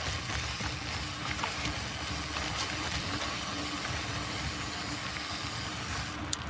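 Mountain bike riding along a dirt trail: a steady rush of wind and tyre noise, with a faint low hum underneath.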